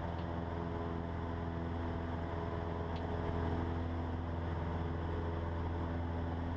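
Cessna 150's four-cylinder Continental O-200 engine and propeller droning steadily in flight, heard inside the cockpit.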